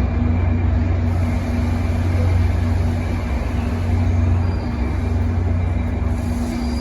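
A train idling at the platform: a steady low rumble with a constant hum.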